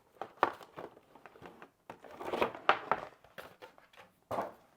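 Handling noise: irregular rustling and crinkling with sharp little clicks, as the hair dryer and its accessories are picked up and moved about. The dryer itself is not running.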